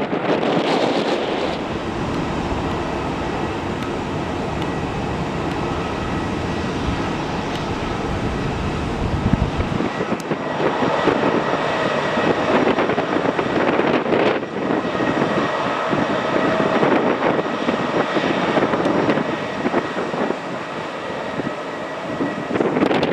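Jet airliner's turbofan engines running, a steady rushing noise with a faint high whine, while wind buffets the microphone.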